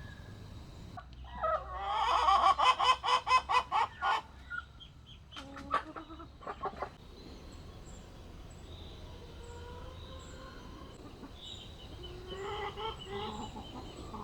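Birds calling: a loud run of rapid, pulsed calls from about one and a half to four seconds in, then shorter calls around six seconds and fainter ones near the end, over a low steady background.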